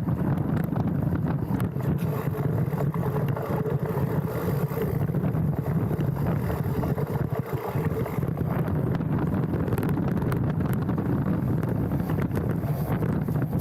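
A mountain bike riding down a dirt trail, heard from a handlebar-mounted action camera: steady wind rumble on the microphone and tyre noise, with scattered clicks and rattles from the bike over the ground.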